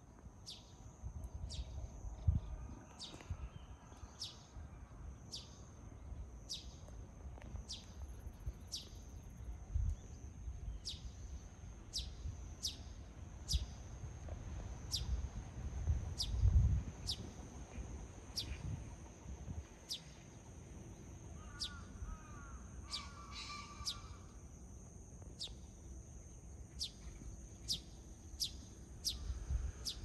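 A bird calls a short, high, falling note over and over, about once a second, over a steady high-pitched whine and low wind rumble on the microphone. About two-thirds of the way through, a harsher, lower bird call joins briefly.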